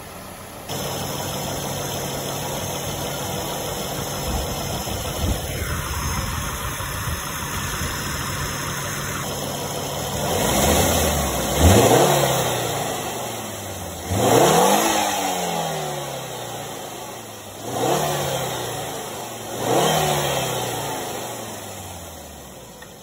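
Volvo V50 T5's turbocharged 2.5-litre inline-five engine idling, then revved four times, each blip rising quickly in pitch and sinking slowly back toward idle.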